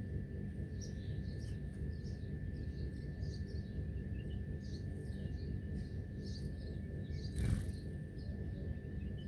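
Small birds chirping in many quick, short calls over a steady low background rumble, with a thin steady tone underneath. About seven and a half seconds in, a brief loud rush of noise stands out.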